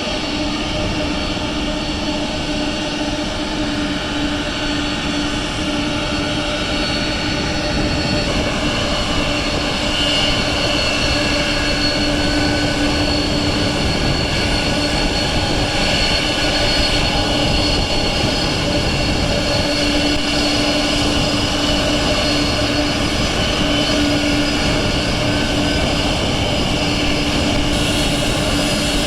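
Four turbofan engines of a Boeing 747-400 Dreamlifter cargo jet running at taxi power: a steady jet whine with a constant hum beneath it, growing a little louder about a third of the way in.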